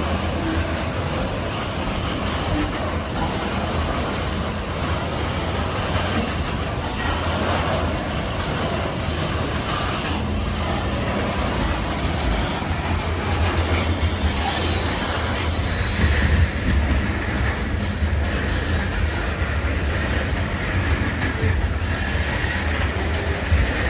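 Cars of a BNSF coal train rolling past, a steady rumble of wheels on rail with clicking over the joints and high wheel squeal at times.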